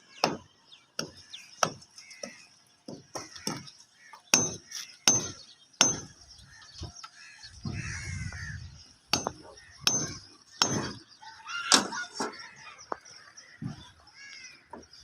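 Hand tools striking masonry on a building site: irregular sharp knocks, some with a brief metallic ring, roughly one a second. A few bird calls come in between.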